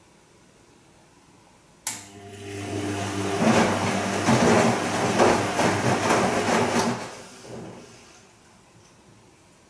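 Bosch Serie 2 Vario Perfect washing machine on its gentle Silk program: the drum motor starts with a click about two seconds in, and the drum turns for about five seconds with a motor hum and the swish of the wet laundry, then slows and stops.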